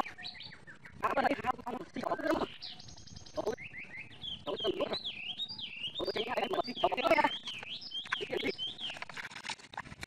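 A bird chirping in a quick run of rising-and-falling high notes, about three a second, through the middle and latter part. Louder bursts of noise come in twice.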